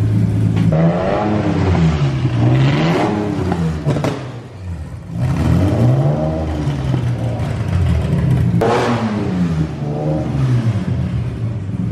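BMW S54 3.2-litre inline-six, swapped into an E30, running loud and being revved repeatedly, its pitch rising and falling in several swoops, with a brief drop back near the middle.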